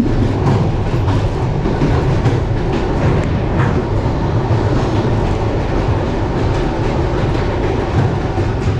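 Passenger train running at speed, heard from inside the carriage: a steady rumble of wheels on rails with the knocking of the wheels over the rail joints.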